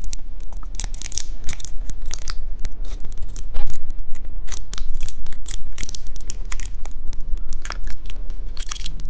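Plastic candy wrapping crinkling and tearing as it is handled and opened: a dense, irregular run of sharp crackles.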